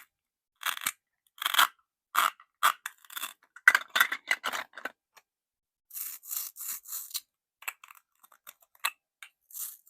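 Plastic toy pieces being handled, scraping and rustling against each other in a string of short, separate bursts with silent gaps between, and a few sharper clicks near the end.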